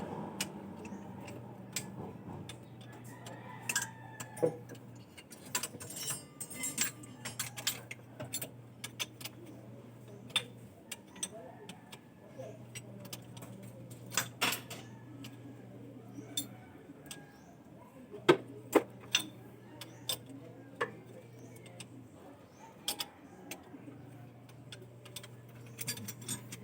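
Metal tools and engine parts being handled: scattered clinks and taps, a few sharper knocks, over a low hum that runs for about four seconds at a time with short breaks.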